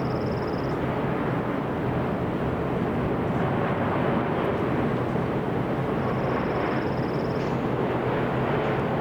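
Boeing 787 Dreamliner jet engines making a steady, even rumble, with a thin high whine at the start and again from about six seconds in.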